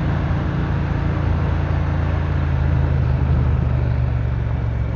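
Triumph motorcycle engine running at a steady pitch while riding at speed, with wind noise over the microphone.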